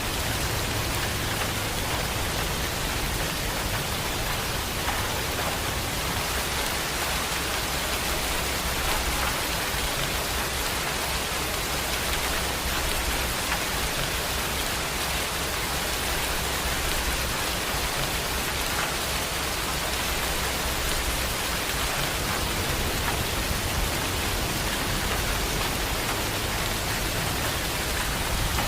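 Heavy rain falling steadily, a dense hiss of drops with fine pattering and a low rumble underneath.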